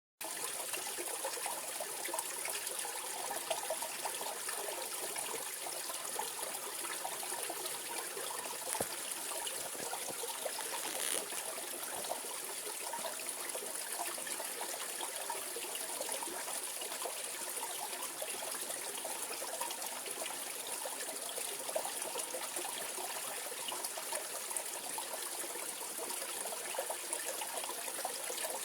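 Mountain stream flowing over rocks in a steep valley, a steady babbling and splashing rush of water.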